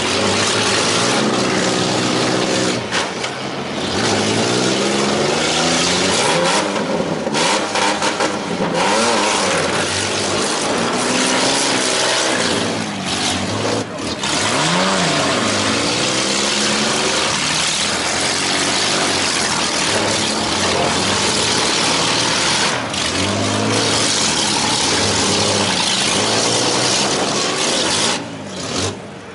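Many car engines revving at once as the cars are driven hard in a demolition derby heat, their pitches rising and falling over one another.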